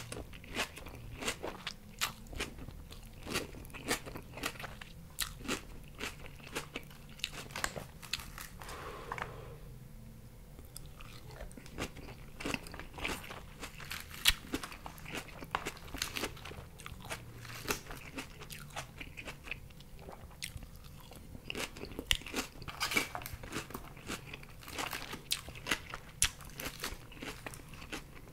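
A person chewing crisp raw lettuce and purple cabbage salad close to the microphone: quick, irregular wet crunches, with a short lull about ten seconds in.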